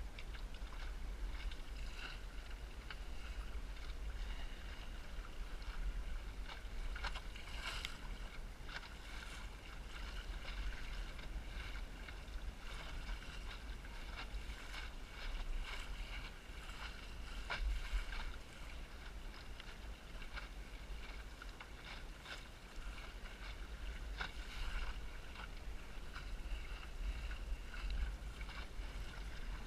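Wind buffeting the microphone in a constant low rumble, over the hiss and slap of water against the hull of a small Snark sailboat sailing in strong wind, with scattered sharp splashes.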